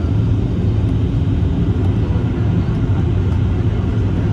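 Steady low rumble of a Boeing 737-800 airliner's CFM56-7B jet engines.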